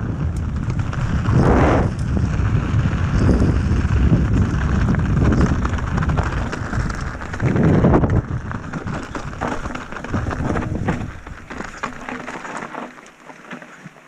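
Wind buffeting the microphone in strong gusts, with scattered small ticks and rattles, easing off near the end.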